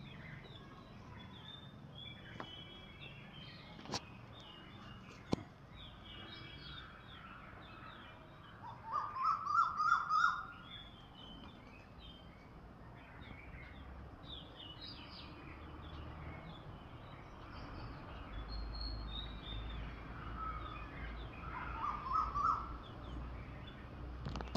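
Several birds singing and chirping outdoors, with many short high chirps throughout. A louder burst of rapid lower notes comes twice, once about a third of the way in and again near the end. Two sharp clicks fall early on.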